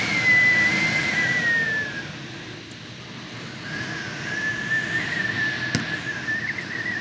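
Strong wind gusting and whistling at a high, wavering pitch, in two gusts: one at the start that fades after about two seconds, and another building from about halfway. A short click about two-thirds of the way in.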